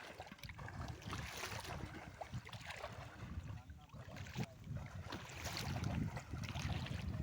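Wind buffeting the microphone in uneven gusts, with bursts of hiss now and then.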